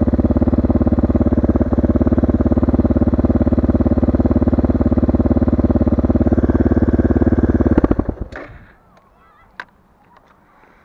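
Motorcycle engine idling with an even, fast pulse, then shut off about eight seconds in, its sound dying away quickly. A single sharp click follows about a second and a half later.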